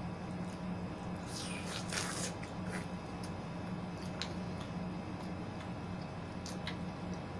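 Wet chewing and squishing of juicy melon and yellow watermelon, with one louder juicy bite or slurp about a second and a half in and small wet mouth clicks scattered through. A steady low hum runs underneath.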